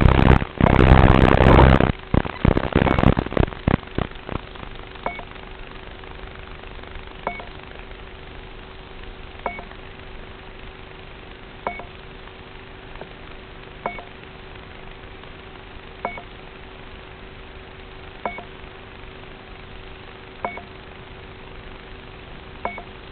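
Loud rushing noise for the first two to three seconds, then a steady hiss and faint hum with a short electronic beep repeating about every two seconds.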